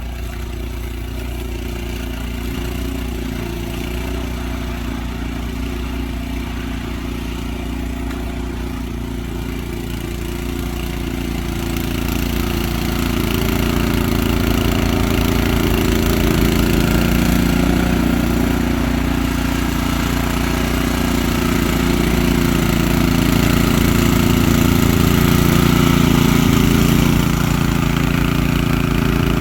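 An engine running steadily, growing louder about halfway through.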